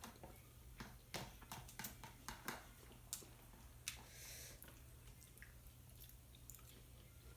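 Close-miked mukbang eating: a person chewing, with sharp crunchy clicks and mouth noises that thin out after about four seconds.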